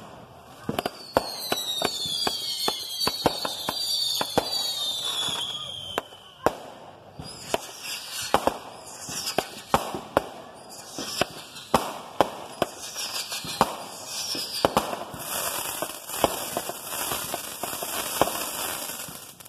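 Fireworks going off in rapid succession, with many sharp bangs. Whistles falling in pitch run through the first few seconds, shorter falling whistles come later, and near the end a dense hiss of spraying sparks joins the bangs.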